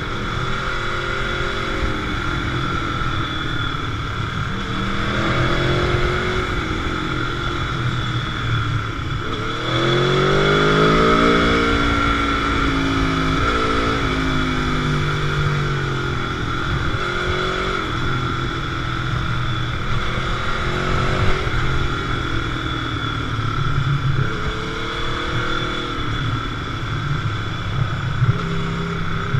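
Motorcycle engine on a ride, its pitch climbing and dropping again and again as it accelerates and shifts or rolls off. About ten seconds in comes one long, strong pull.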